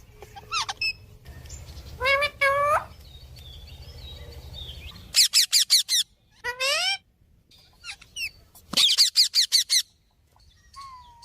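Parrots calling: short whistled chirps and squawks, with two quick runs of rapid repeated chirps about five and nine seconds in.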